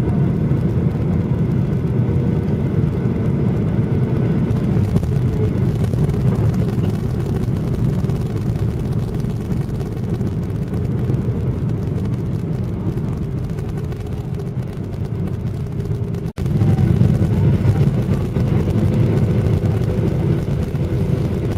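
Steady low rumble of an airliner's jet engines and airframe heard inside the passenger cabin as it rolls on the ground after landing. It cuts out for an instant about sixteen seconds in, then carries on a little louder.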